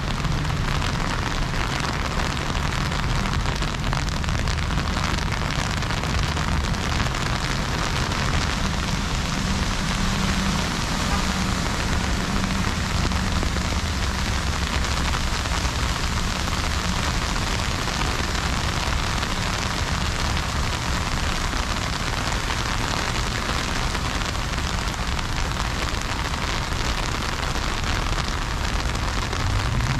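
Heavy freezing rain falling steadily: a dense, even hiss, with a low rumble underneath.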